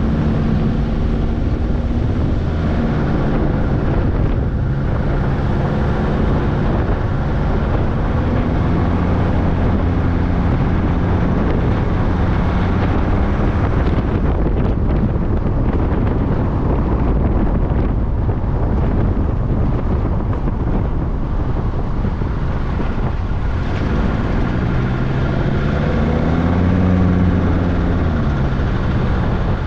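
Wind rushing over a microphone held outside the window of a moving Jeep Grand Cherokee WJ, over the steady running of its 2.7 CRD five-cylinder turbodiesel. The engine note rises and falls again near the end.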